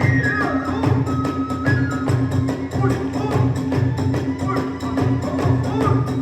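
Kagura hayashi ensemble playing: a large drum beats a steady rhythm about twice a second under fast, even clashes of small hand cymbals, while a bamboo flute plays a high melody with slides.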